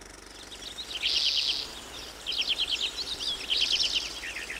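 A songbird singing: several phrases of fast, high trilled notes, beginning about half a second in.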